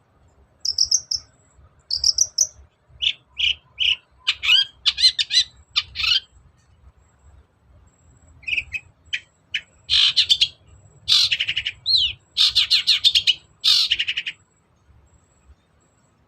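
Long-tailed shrike (cendet) singing a varied song. It opens with two high whistled notes, then a run of short quick notes, and after a pause a stretch of harsh, rapid chattering trills that stops about fourteen seconds in.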